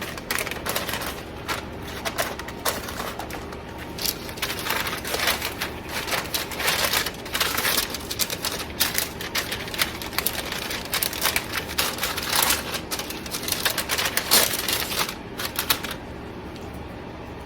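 Parchment paper crinkling and crackling in quick irregular clicks against a baking sheet as crescent-roll dough is pressed and stretched on it by hand; it stops shortly before the end.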